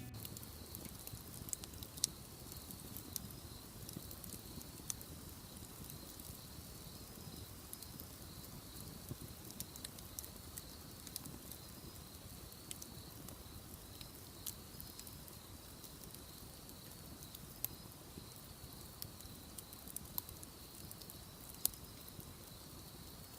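Wood bonfire crackling, with scattered sharp pops.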